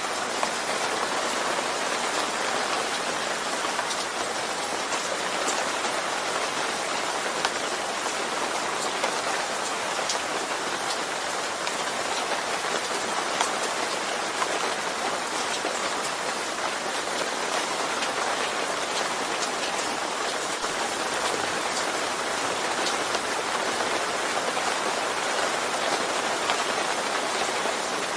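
Steady rain falling, a constant patter with scattered individual drop ticks.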